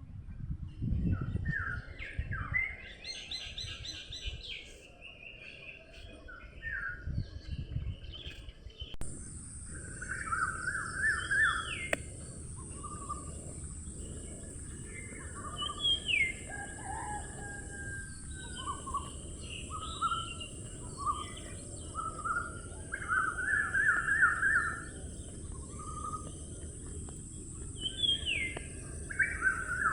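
Songbirds singing and chirping: short repeated trills and rising notes from several birds, over a steady low rumble of background noise. A steady high hiss joins about nine seconds in.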